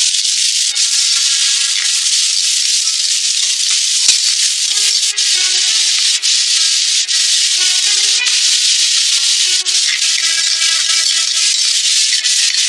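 Corn kernels and diced carrot sizzling in hot oil in a stainless wok, a steady loud hiss that starts as they are tipped in. A few sharp clicks are heard along the way.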